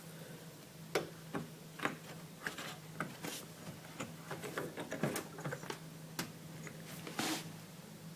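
Irregular drips of water falling from the opened drain-pump filter of a Bosch washer-dryer into a container, a sharp tick every second or so over a faint steady hum.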